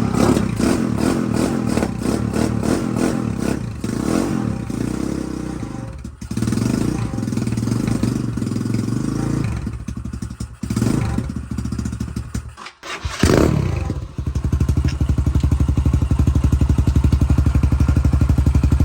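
Dirt bike engine running unevenly and breaking off a few times, then settling into a steady, loud idle about two-thirds of the way in.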